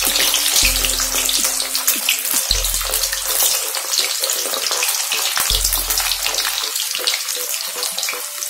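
Stuffed bitter gourds (karela) deep-frying in hot oil in a kadai, a fresh batch just added: a steady, dense sizzle with rapid crackling and popping.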